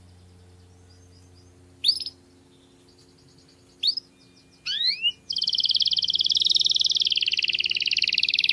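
Canary singing: a few short, separate rising whistled notes, then from about five seconds in a loud, very fast rolling trill that carries on. A faint steady hum lies underneath.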